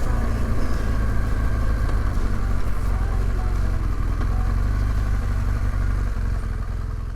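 Adventure motorcycle engine running steadily, fading out near the end.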